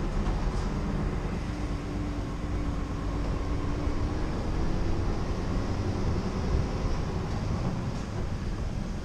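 Scania R490 truck's 13-litre straight-six diesel running steadily while driving, with constant low road and engine rumble and a faint whine that drifts slightly in pitch for a few seconds.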